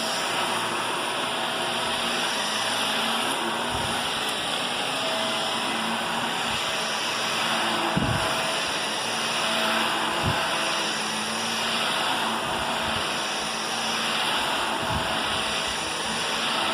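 Vacuum cleaner running steadily while carpet is vacuumed: a constant airflow hiss with a high motor whine, broken by a few dull low thumps.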